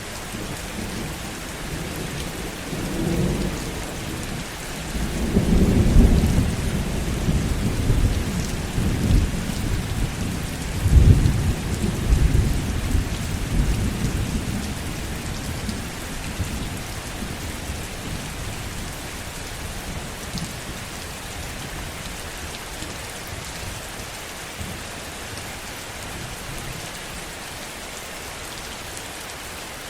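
Heavy rain falling steadily, with a long roll of thunder that swells a few seconds in, is loudest through the middle, and fades away, leaving only the rain.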